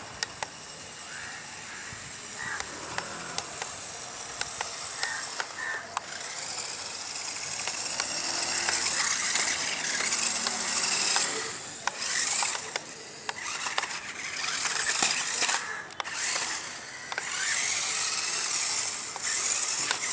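Toy RC rock crawler driving, its small electric motor and plastic gearbox whining up and down in pitch in several spurts, with scattered clicks and scrapes from the chassis and wheels.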